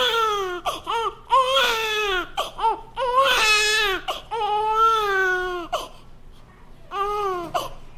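Baby crying: a run of wailing cries with short catching breaths between them, then a quieter spell before one more cry near the end.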